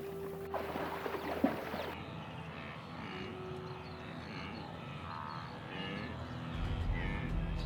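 River and wildlife ambience. Rushing, crackling water noise for the first two seconds cuts off abruptly into a quieter natural background with faint scattered animal calls. A low rumble swells near the end.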